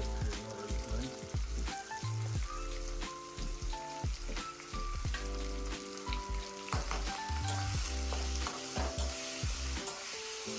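Chicken gizzards sizzling as they fry in a pan, with repeated clicks and scrapes of stirring, over background music of held notes.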